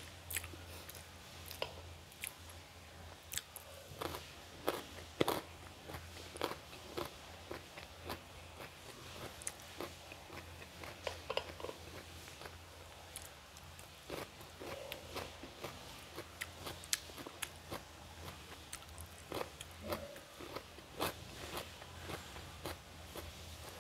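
Close-miked chewing and wet mouth sounds of a person eating rice and mutton curry by hand. Irregular sharp clicks and small crunches run throughout, along with fingers working the rice on a steel plate, over a faint low hum.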